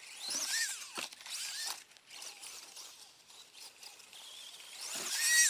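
FMS Max Smasher mini RC monster truck being driven: its small electric motor whines up and down in pitch as the throttle is worked, with scratchy tyre scrabble and a couple of short knocks. The loudest rev comes near the end.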